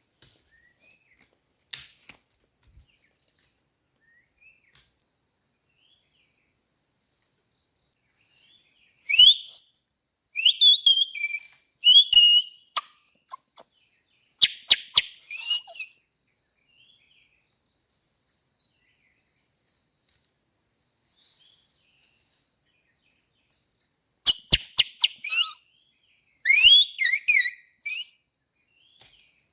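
A blade of grass blown as a reed whistle to imitate an oriental magpie-robin's call, giving loud, squeaky, rising whistles in four short groups. Under them runs a steady, high-pitched drone of insects.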